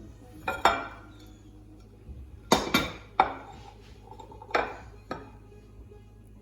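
Dishes and cutlery clinking: about seven sharp clinks, some ringing briefly, as plates and utensils are handled.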